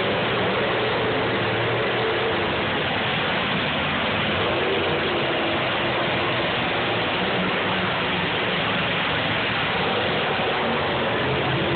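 Dense, steady din of demolition derby car engines running in the arena.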